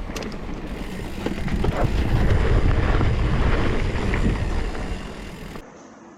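Wind buffeting the microphone and rolling rumble of a bicycle on the move, building to its loudest around the middle before fading, and then cutting off abruptly near the end.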